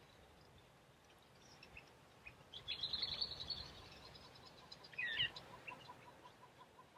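Wild birds calling in open country: a fast run of high chirps about three seconds in, then a short looping call near five seconds. Through the second half a steady series of soft lower pips repeats at about five a second.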